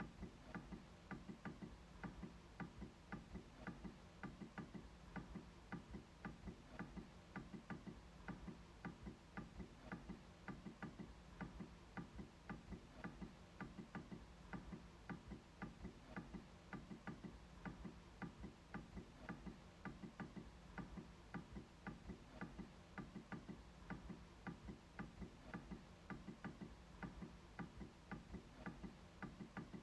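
MacBook trackpad being clicked over and over: a faint, even run of light clicks, about three a second.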